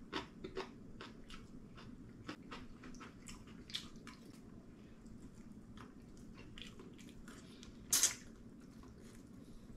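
A person chewing and biting mouthfuls of braised spicy chicken, with frequent small mouth clicks and smacks. A louder, sharper smack comes about eight seconds in.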